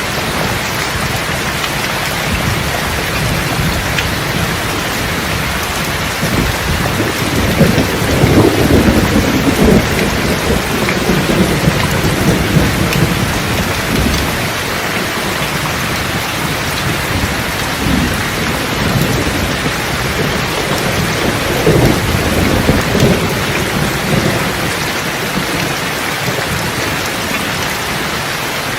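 Steady rain with rolling thunder; the thunder rumbles loudest from about seven to ten seconds in and again a little after twenty seconds.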